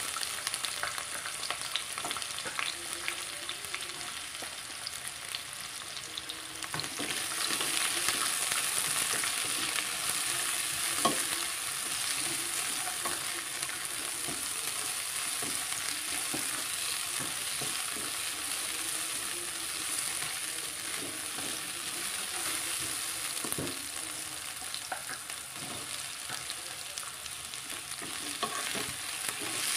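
Bell pepper strips sizzling in hot olive oil in a nonstick wok, stirred so that the spatula scrapes and taps the pan now and then. The sizzle grows louder about seven seconds in.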